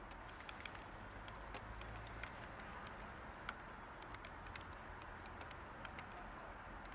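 Light, irregular computer keyboard typing, scattered key clicks with one sharper click about halfway through, over a steady hiss of background white noise.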